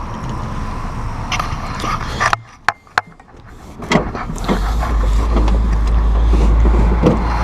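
Clicks and knocks of a compact tractor's plastic hood being lifted and tipped forward, over a low rumble that becomes much heavier about halfway through.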